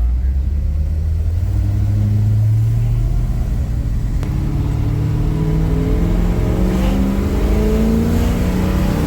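The '57 classic car's engine running under way, its pitch climbing several times as the car accelerates.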